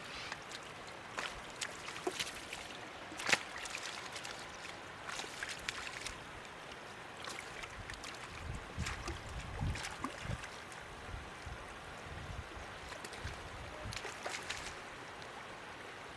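Shallow flood water splashing and trickling, with scattered sharp splashes and a few low thuds around the middle.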